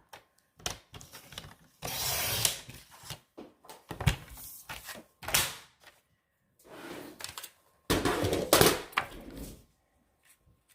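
Paper trimmer cutting cardstock twice, the blade swishing along the rail for about half a second to a second each time, with clicks and taps as the sheet is squared up and positioned between the cuts.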